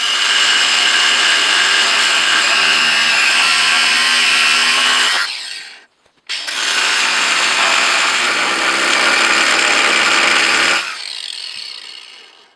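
Angle grinder with a thin cut-off disc cutting through a seized screw head on a cast-iron wood stove. It runs steadily with a high whine for about five seconds, stops briefly, then cuts again for about four more seconds before winding down.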